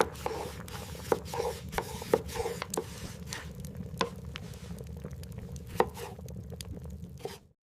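Irregular light knocks and clicks, about a dozen spread unevenly, over a low steady hum.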